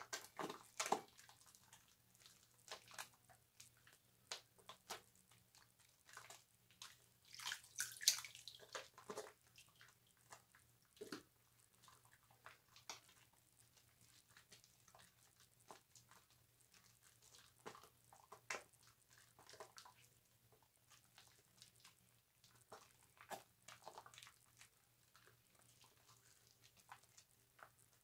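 Bar soap and a wet loofah being worked together into lather: faint, irregular wet squishing and crackling of suds, with a brief louder flurry about a quarter of the way in.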